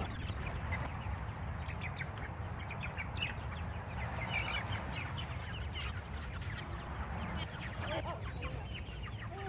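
Chickens peeping and clucking, with many short high chirps throughout and a few longer wavering calls near the end, over a steady low rumble.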